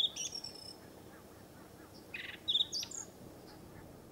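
A small songbird singing the same short phrase twice, about two and a half seconds apart: a quick rattling trill followed by a few higher, clear notes.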